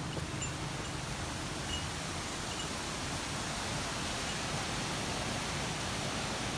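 Steady rushing of a gorge stream's flowing water.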